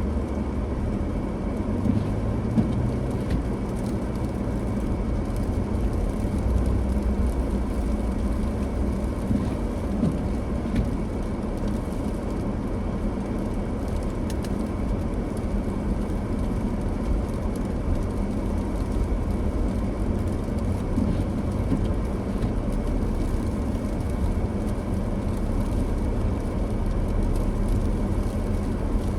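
Steady road noise of a car driving through a snow storm: a low engine and tyre rumble on the snowy road, with a few faint steady tones above it.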